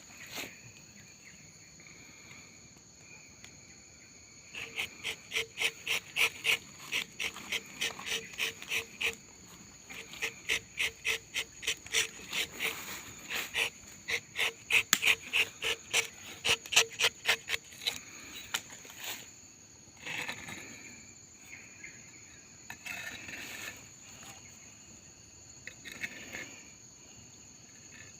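Insects chirring steadily in two high, even tones. For about thirteen seconds a fast rhythmic pulsing of about three beats a second runs over them, and near the end come a few brief rustles.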